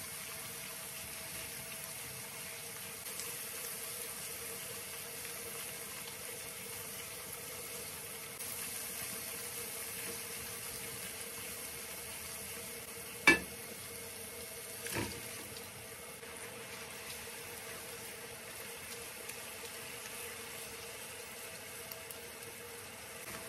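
Onion-tomato masala sizzling in a nonstick frying pan as it is stirred with a spatula, over a steady hum. A sharp knock about two-thirds of the way through and a smaller one a second and a half later.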